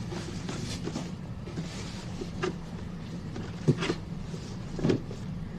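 Soft handling sounds: a few brief rustles and light knocks, with the loudest one about four seconds in, over a low steady background hum.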